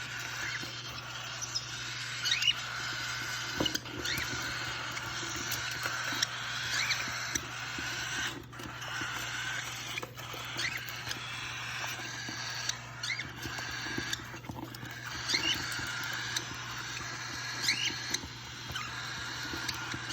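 Month-old cockatiel chicks calling with short, squeaky chirps that rise and fall in pitch, scattered irregularly a second or so apart, over a steady low hum.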